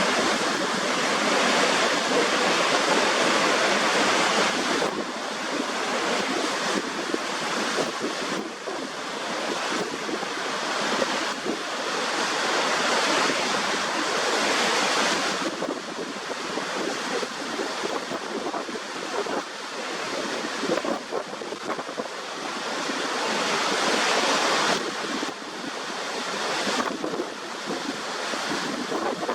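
Waterfall water falling and crashing, a steady rushing noise that shifts abruptly in level and tone several times.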